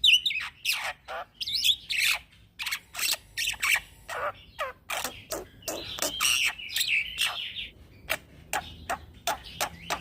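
Young black-winged myna (jalak putih) singing in a rapid, nearly unbroken run of harsh notes, many sweeping down in pitch, with a warbling passage a little past the middle.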